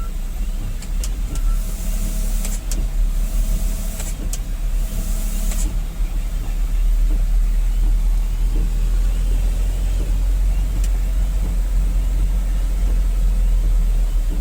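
Dump truck's diesel engine running steadily under load on a steep, rough mountain road, with a few short hisses about two to five seconds in.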